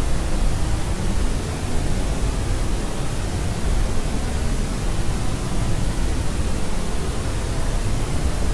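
Steady white noise for soothing a baby: an even, deep hiss with most of its weight in the low end, unchanging throughout.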